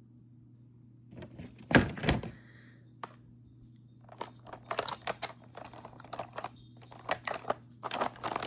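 Small cosmetics being handled and rummaged through: plastic lipstick tubes and makeup packaging clicking and rattling. There is one loud knock just under two seconds in, then a busy run of small clatters through the second half.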